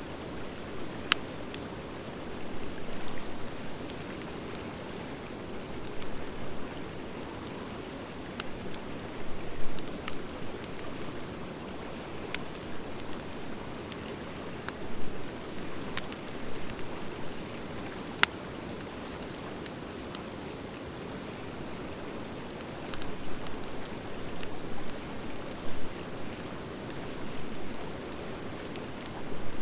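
Wood fire of driftwood and dry hardwood burning, with a steady low rush of flames and scattered sharp crackles and pops.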